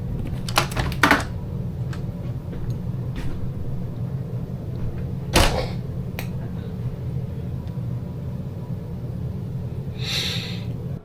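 Steady low hum inside a travel trailer with a few sharp knocks and clicks: a quick cluster about a second in and a single louder knock about five seconds in. A short hiss follows near the end.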